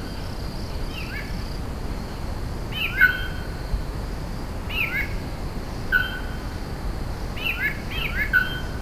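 Birds chirping: short whistled notes, some sliding or hooked, often in twos and threes, every second or two over a steady low background rush. A steady high hum fades out about two seconds in.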